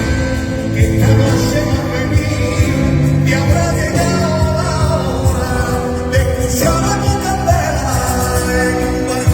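Live song with band accompaniment over a steady beat, a male voice singing held notes in a melancholy Andalusian ballad between lyric lines.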